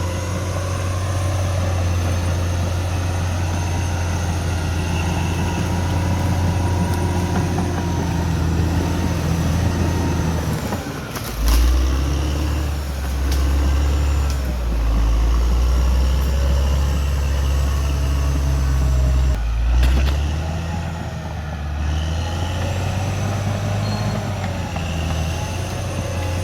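Caterpillar D6R XL bulldozer's diesel engine running. Partway through, its pitch drops and it runs louder for several seconds, as under heavy load, then comes back up, with a few brief knocks along the way.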